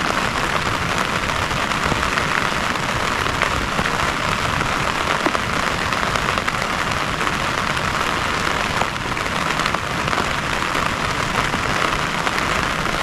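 Heavy rain falling steadily: a dense, even hiss of drops, with scattered single drops ticking through it.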